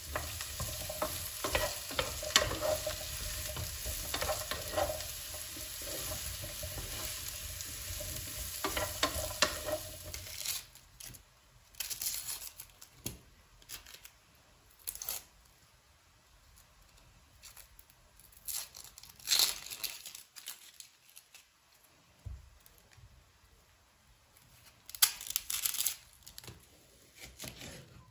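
Potatoes and mushrooms sizzling in a frying pan while a utensil stirs and scrapes them, for about the first ten seconds. After that the sizzling stops, and there are scattered taps and clatters of kitchen utensils.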